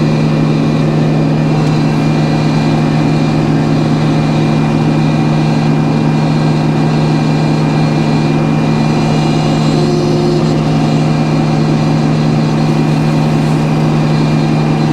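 Sawmill's engine running at a steady speed, a constant loud hum with no change in pitch.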